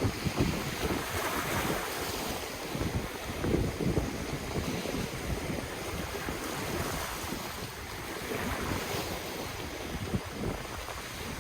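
Ocean waves washing steadily, with wind gusting against the microphone in irregular low thumps.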